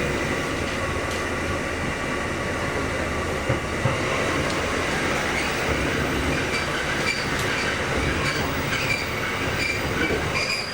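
Kotoden Nagao Line electric train heard from inside the car, running with steady wheel and rail rumble. From a little past halfway, thin high-pitched wheel squeal comes and goes over the rumble.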